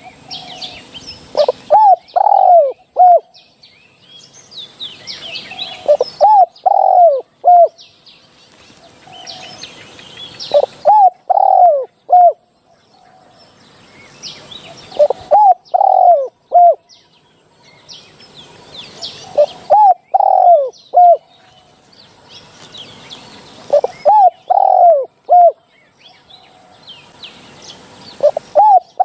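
Spotted dove cooing: a short phrase of three or four hooting notes, repeated about every four and a half seconds. Higher chirps from small birds come between the phrases.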